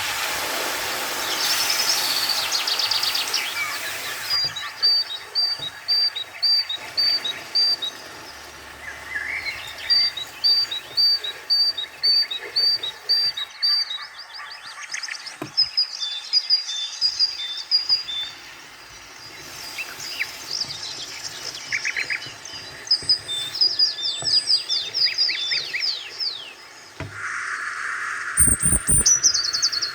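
Small birds chirping: repeated runs of quick high chirps, several notes a second, with short pauses between runs. Near the end a hiss comes in, with a few low knocks.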